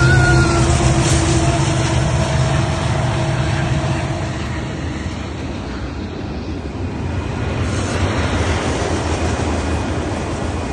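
Union Pacific train passing close by: a steady diesel locomotive engine drone for the first few seconds, then the continuous rolling rumble of the train on the rails, easing slightly midway and swelling again.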